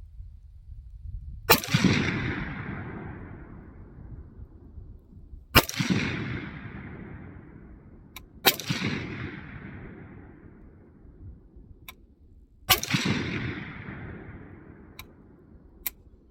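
Four single semi-automatic shots from a custom-built AR-15 rifle being sighted in, spaced three to four seconds apart. Each sharp crack is followed by a long fading rumble.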